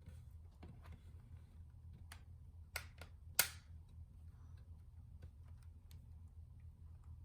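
A few sharp, small clicks and taps, four clear ones close together around two to three and a half seconds in, the last the loudest, over a steady low hum.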